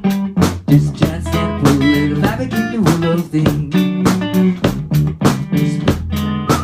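Instrumental music: a clean Supro Dual Tone electric guitar picking a melody and chords over a steady beat from foot-played drums, about three hits a second.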